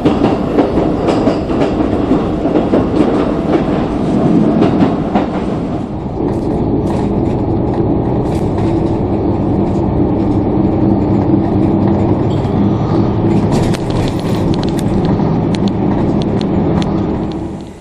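Ride noise heard from inside a moving train: a rumble with wheels clicking over the rail joints. About six seconds in it turns into a steadier running hum with a low drone, which runs until near the end.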